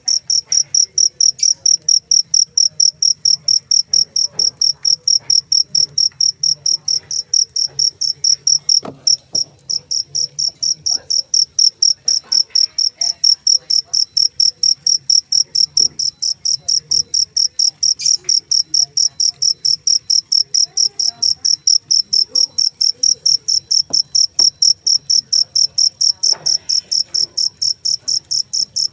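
A cricket chirping loudly and shrilly, a high-pitched chirp repeated evenly about three times a second, with one short break about nine seconds in.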